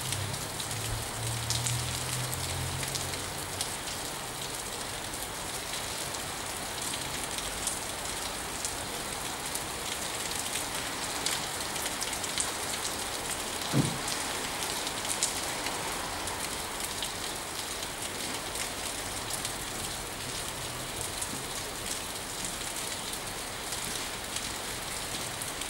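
Steady rain falling, with many fine drop ticks. A low hum is heard in the first few seconds and again near the end, and a single short thump comes about halfway through.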